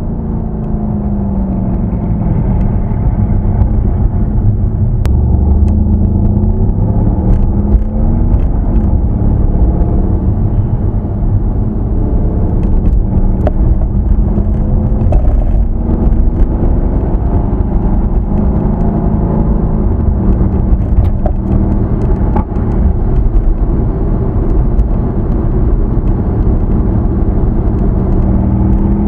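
Mercedes-AMG C63 S (W205) twin-turbo V8 running through its stock exhaust while driving, the engine note rising and falling in pitch over and over.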